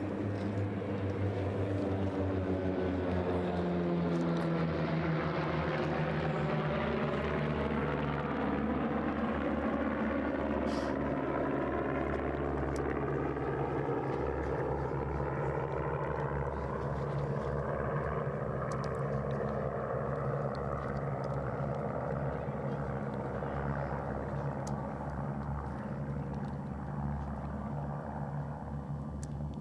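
A formation of propeller aircraft flying a pass, with a continuous engine drone. It is loudest a few seconds in, then eases off slowly as the planes move away.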